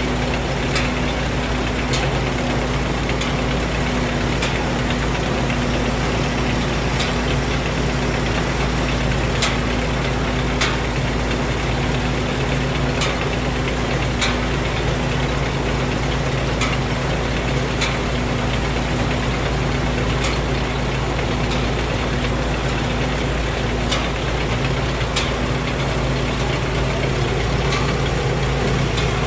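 Thai Seng Yont Jao Payu 4.0 combine harvester running steadily under load while harvesting lodged rice: an even engine and machinery drone, with sharp brief ticks every second or two.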